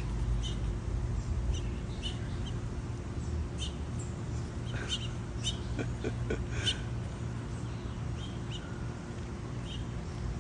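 Birds chirping: short, high chirps at irregular intervals, some in quick clusters, over a steady low hum.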